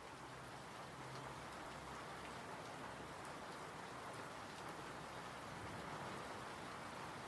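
Steady rain falling, a soft even hiss with scattered drop ticks, rising gently in level over the first seconds as it fades in.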